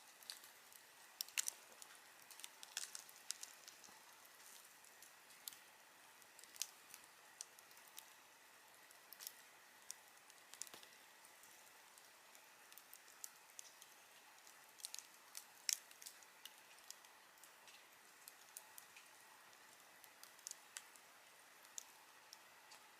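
Wood fire crackling: irregular sharp pops and snaps, several a second at times, over a faint steady hiss, with a few louder snaps a little over a second in, near three seconds and near sixteen seconds.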